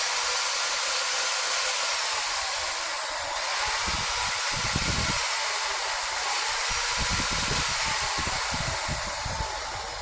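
DCA AJZ05 500 W corded electric drill running free with nothing in the chuck, a steady, smooth motor whine.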